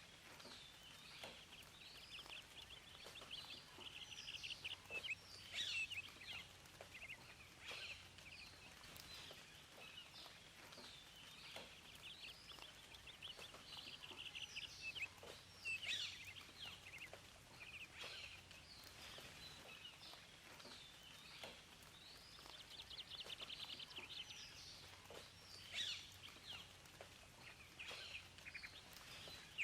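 Several small songbirds chirping and calling, with quick repeated trills every several seconds and short rising and falling notes in between, over a faint steady hiss.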